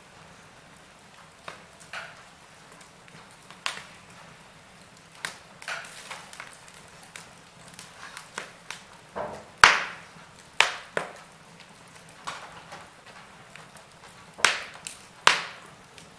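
Wood fire crackling in a fireplace: irregular sharp pops and snaps over a faint steady hiss, the loudest pops about ten seconds in and twice near the end.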